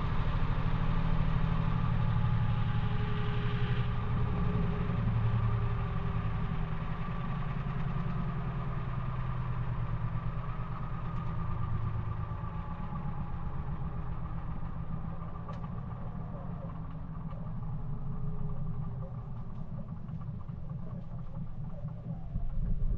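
Maytag washing machine running mid-cycle: a steady motor hum with a rapid low pulsing, its faint tones slowly falling in pitch over the second half.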